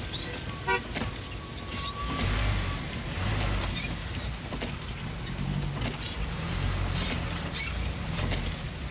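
Street traffic: car engines running with a low, swelling rumble as vehicles creep along and pass.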